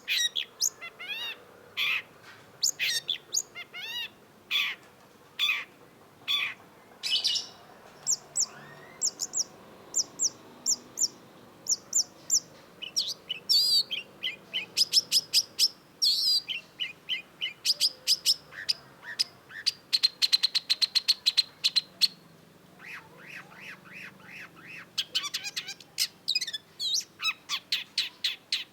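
Long-tailed shrike singing a busy, varied song of short sharp chirps and harsh notes, broken by quick repeated phrases and a very fast rattling trill about two-thirds of the way through.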